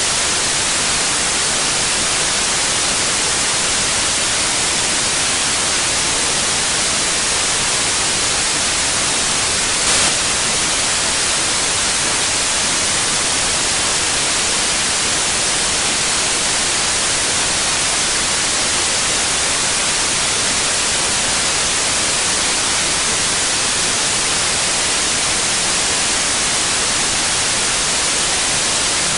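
Steady white noise: an even, unchanging hiss, with one brief click about ten seconds in.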